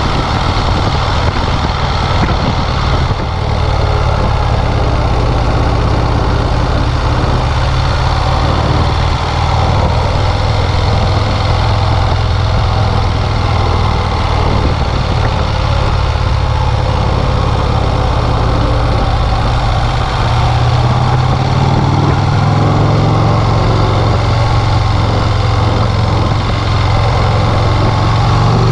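1951 Vincent Rapide's 998 cc V-twin engine running steadily under way, its note rising a little about two-thirds of the way through.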